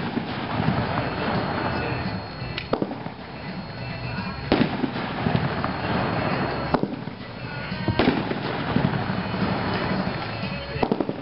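Consumer 9-shot aerial fireworks cake (Winda's Texas Hold'em) firing: about six sharp bangs a second or two apart, with dense crackling filling the gaps between them.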